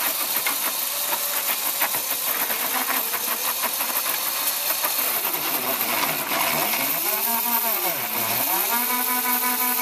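Electric mini dirt bike doing a burnout, its rear tire spinning against dirt and wood with a gritty, crackling noise. From about six seconds in, the motor's whine swoops up and down in pitch twice as the throttle is worked.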